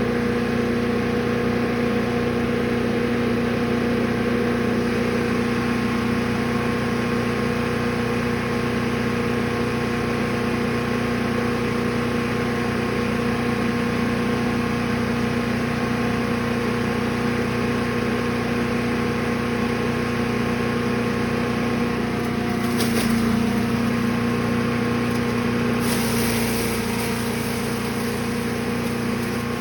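Gas engine of a Brush Master 3-in-1 wood chipper/shredder running steadily at a constant pitch. There is a brief jolt about three-quarters of the way through and a hissing rise shortly after.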